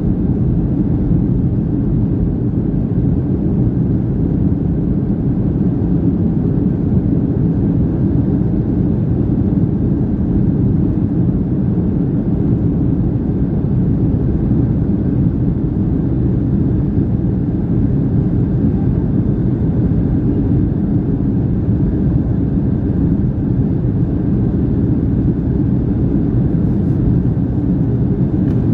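Steady low rumble inside the cabin of a Boeing 757-300 airliner, running evenly.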